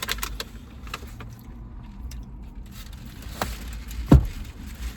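Eating and handling noises at a table: a few light clicks and taps, then a dull thump about four seconds in, over a low steady hum.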